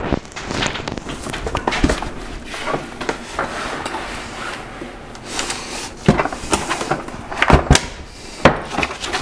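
Foam packing blocks and cardboard being handled and pulled off a 3D printer, with rustling and scattered knocks and bumps. Several sharper knocks come in the second half.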